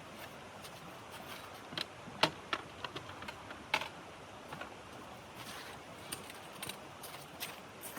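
Irregular light clicks and taps over a steady hiss, the two sharpest a little after two seconds and near four seconds in.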